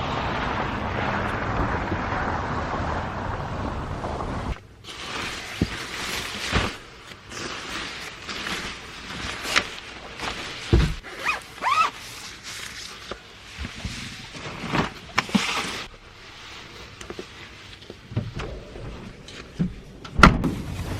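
Steady wind rushing over the microphone, which cuts off abruptly after about four and a half seconds. After that come scattered knocks and clicks with a couple of short rising squeaks about halfway through, and one louder knock near the end.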